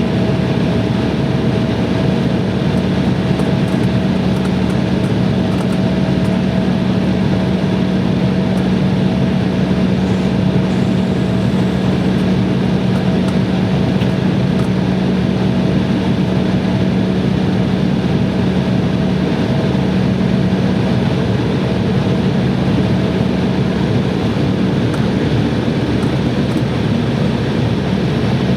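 Airliner jet engines running steadily, heard from inside the cabin as a constant noise with a steady low hum and a fainter higher tone.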